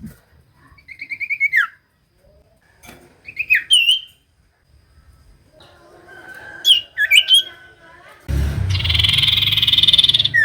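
Common iora song: short bursts of quick chirping notes sliding down in pitch, then a few whistled notes. For the last two seconds a loud, steady rasping noise drowns them out.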